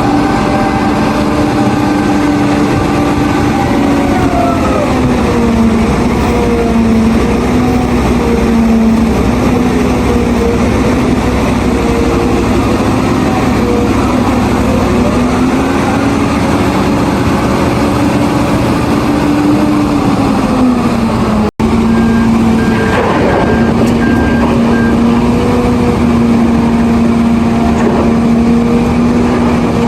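Caterpillar 992G wheel loader's diesel engine running hard under load, its pitch falling and rising as the operator works the throttle. About two-thirds of the way in, a reversing alarm beeps several times.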